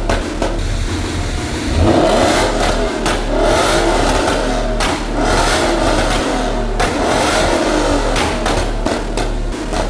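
Ford Mustang Shelby GT500's V8 engine being revved repeatedly, its note climbing and dropping back several times.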